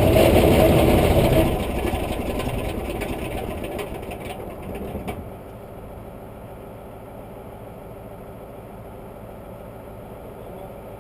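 Engine running loudly, then dropping sharply about a second and a half in and dying away over the next few seconds to a low steady hum.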